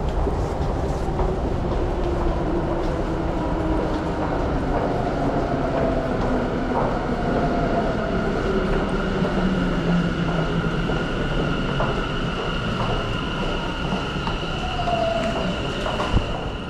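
Electric commuter train pulling into an underground platform and slowing, its motor whine falling in pitch over a steady rumble. A steady high squeal joins about six seconds in, and there is a single knock near the end.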